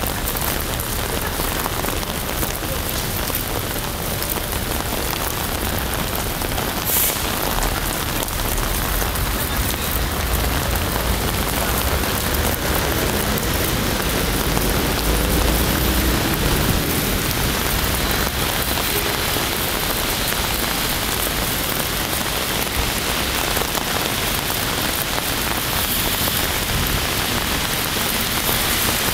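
Steady heavy rain pattering on an umbrella held close overhead and splashing on the wet paved street. A low rumble swells in the middle, and there is one sharp click about seven seconds in.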